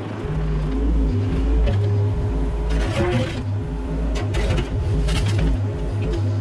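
Mini excavator's diesel engine running, its low note changing with load. Bursts of scraping and rattling come about three seconds in and again between four and five and a half seconds.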